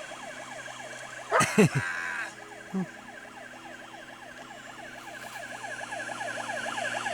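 An electronic siren-like warble, a tone sweeping rapidly up and down over and over at an even pace, with a brief loud sound about a second and a half in.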